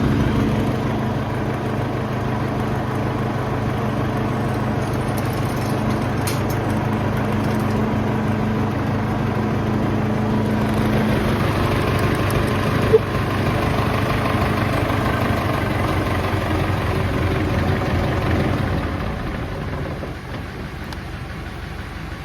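Nuffield 10/60 tractor engine running steadily, growing quieter near the end. One sharp click about 13 seconds in.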